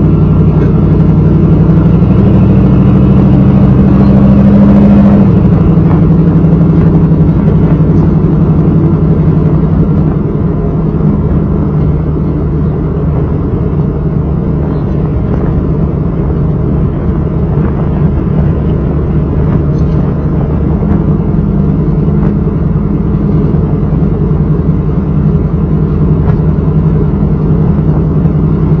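1995 Chevrolet Camaro Z28's 5.7 L LT1 V8 running through a Flowmaster exhaust: a steady, deep exhaust note. It is a little louder for the first five seconds, then eases off slightly and holds steady.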